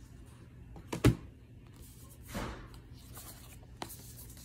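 A single sharp knock about a second in, then a soft swish and a light click near the end, over low room hum.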